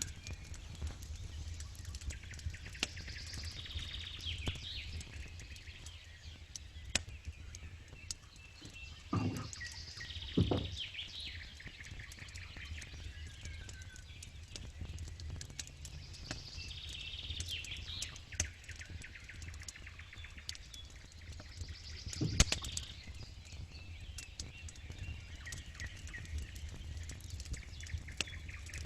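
Campfire crackling steadily with scattered pops, with birds chirping in repeated short phrases behind it. There are three louder knocks, two close together about nine and ten seconds in and one about twenty-two seconds in.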